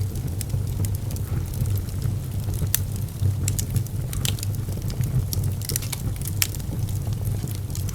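Wood fire burning in a fireplace: irregular sharp crackles and pops of the burning wood, about a dozen, over a steady low rumble of the flames.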